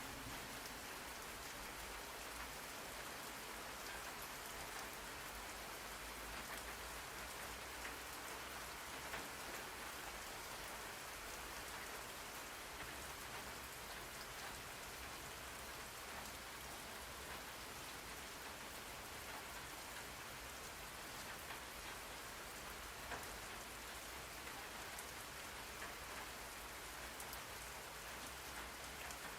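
Steady rain falling on a surface: an even hiss with a few sharper drop ticks here and there.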